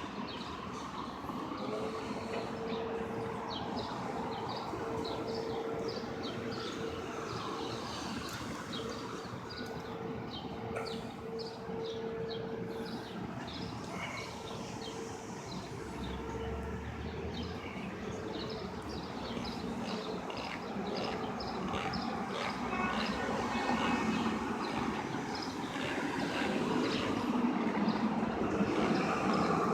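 Outdoor city noise: a steady rumble of passing vehicles with a held mid-pitched hum through roughly the first half, and many short high chirps or ticks throughout.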